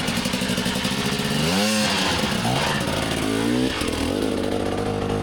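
Dirt bike engine running under throttle, revved up and back down twice, a little under two seconds apart.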